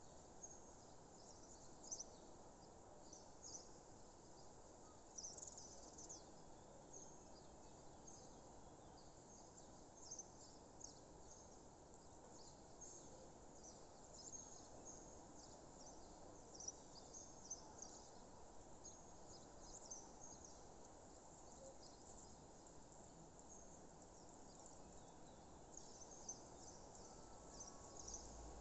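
Faint outdoor nature ambience: many short, high chirps scattered throughout, thinning out for a few seconds past the middle, over a soft steady hiss.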